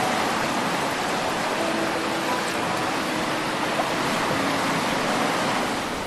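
Ocean surf washing on a beach: a steady, even hiss with no break.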